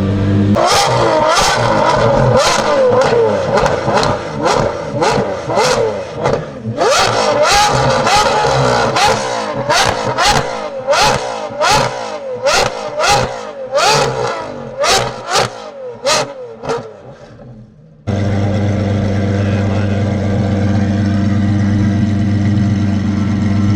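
Lamborghini Revuelto's V12 through a Gintani aftermarket exhaust, revved over and over in quick blips, each one rising and falling, with sharp cracks between them. After about 18 seconds the revving dies down and gives way abruptly to a steady idle.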